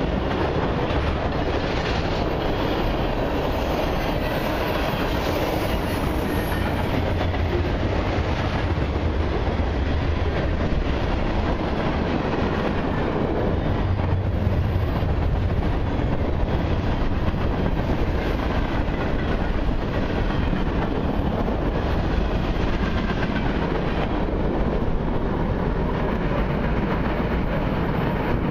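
Freight cars of a long mixed freight train rolling past close by: a steady rumble and clatter of steel wheels on the rails.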